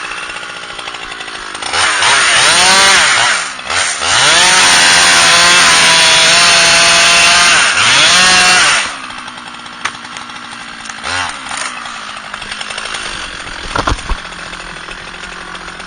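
Two-stroke chainsaw revved up to full throttle about two seconds in, held at high revs for about four seconds, revved once more, then dropped back to a low idle about nine seconds in.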